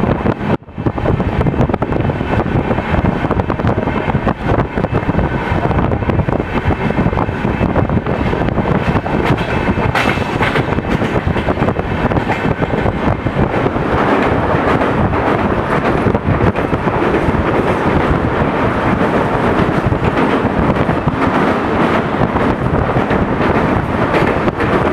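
Moving passenger train running steadily on the rails, a continuous loud rush of wheel and track noise mixed with wind on the microphone; the sound briefly drops out about a second in.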